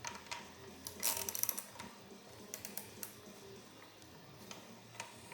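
Hand tools clicking and clinking against the metal of a Toyota 22R engine during teardown, with a short run of rapid clicks about a second in, like a ratchet wrench at work.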